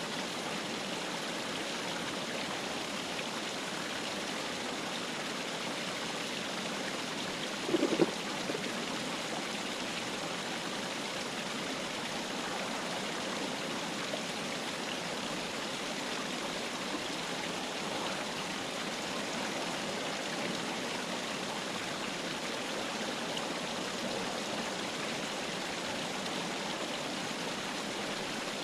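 River water flowing steadily, an even continuous rush. A brief low thump about eight seconds in.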